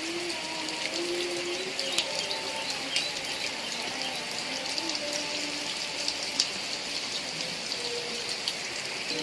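Heavy rain falling steadily, with running, gurgling water and a few sharp drops striking close by.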